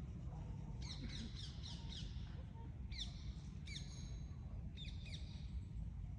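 Small bird singing: a quick run of high down-slurred notes about a second in, then a few more single and paired notes, over a steady low rumble.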